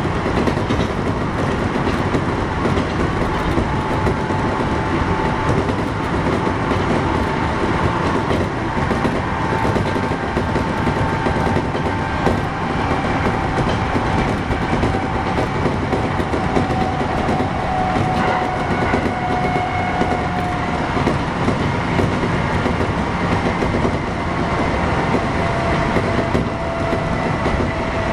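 Kintetsu 1021 series electric train running between stations: a steady rumble of wheels on rail with light clickety-clack. Over it is a faint whine from the Hitachi GTO inverter traction motors, slowly falling in pitch.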